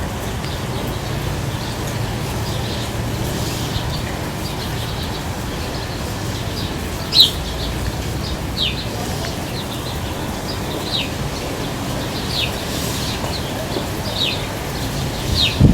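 Bird chirps, each a short quick falling note, scattered and faint at first, then louder and more frequent from about halfway through, over a steady low rumble.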